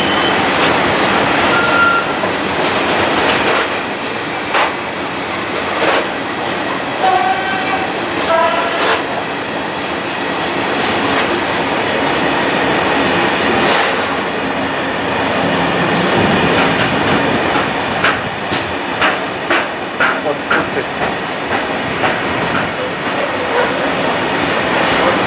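A long freight train of open-top wagons rolling steadily past, its wheels clicking over the rail joints. A few brief high squeaks come from the running gear about a third of the way in.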